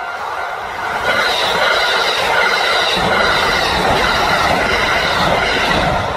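A train running on the rails: a loud, steady rushing noise that swells about a second in, with faint high squealing tones over it.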